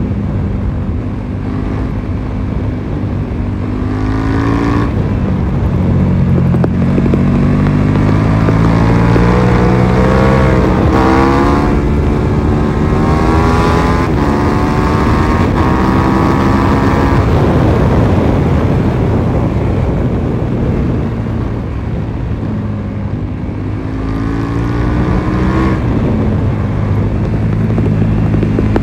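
KTM 1290 Super Duke R's V-twin engine heard on board at speed, its pitch climbing several times as it accelerates and falling back as it eases off, over a steady rush of wind.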